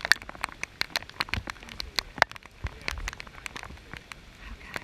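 Rain falling, with many sharp, irregular raindrop ticks a second over a faint hiss.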